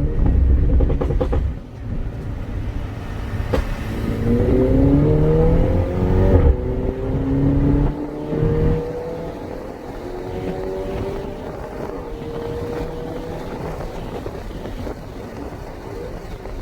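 Mini Cooper engine and exhaust pulling hard, the engine note rising with the revs, dropping sharply at a gear change and rising again, then settling to a steady cruise. A few short sharp cracks from the exhaust come in the first few seconds.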